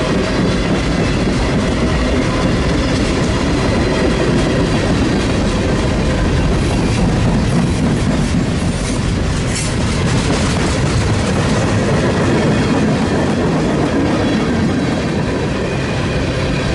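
A train passing close by: the steady, loud rumble of its cars and wheels running over the rails.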